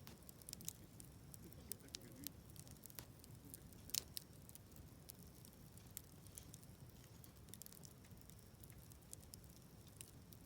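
Wood campfire in a Snow Peak fire pit crackling, with scattered sharp pops, the loudest about four seconds in, over a faint low rumble.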